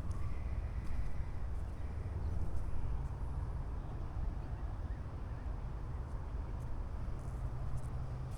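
Outdoor ambience on a walk: a steady low rumble, with footsteps on a garden path and a few faint bird chirps.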